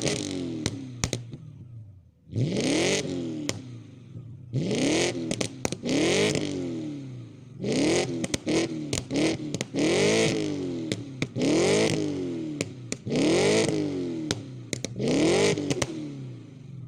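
Audi A8 D2 4.2 V8 with its muffler deleted, revved in about eight quick blips from idle. Each rev rises sharply, falls back, and leaves sharp crackles on the way down.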